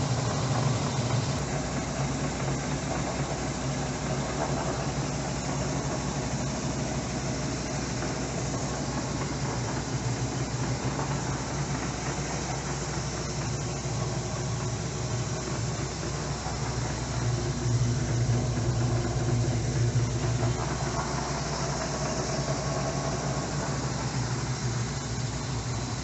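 Electrolux LTE09 top-loading washing machine in its spin cycle: the motor and drum running with a steady hum.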